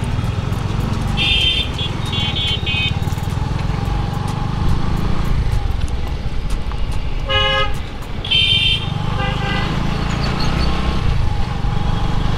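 Road traffic heard from a moving motorcycle: a steady low rumble of engine and wind, with vehicle horns honking several times. Two short high-pitched honks come in the first few seconds, then a deeper horn and another high one about seven to nine seconds in.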